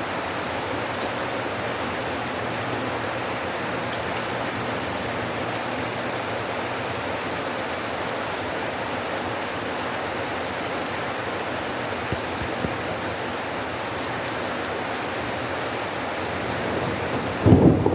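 Heavy rain pouring down, a steady dense hiss of water. A sudden loud low rumble starts near the end.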